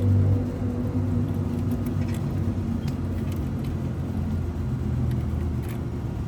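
Outdoor air-conditioning condensing unit running after power-up with its new defrost control board: a steady low hum from the compressor and condenser fan.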